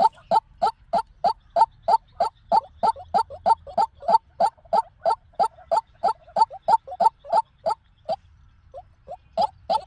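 White-breasted waterhen calling: a steady run of short, loud notes about three a second. The run breaks off about eight seconds in, with a couple of faint notes, then starts again near the end.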